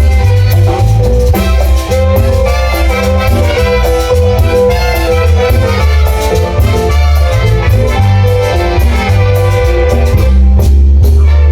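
A Latin dance band playing loud, continuous music over a heavy, steady bass line.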